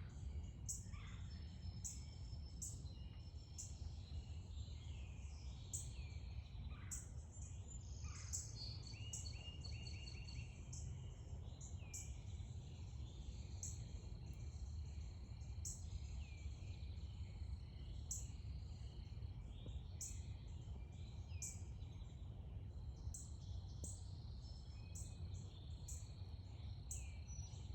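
Several garden birds calling in the evening: a sharp, high chip note repeats about once a second among other short chirps, and a few calls sweep downward. A steady low rumble runs underneath.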